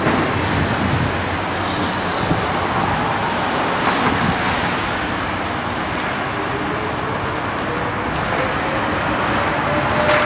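Sydney monorail train with a steady rumble, and from about six seconds in a thin electric whine that rises slowly and steadily in pitch as the train gathers speed.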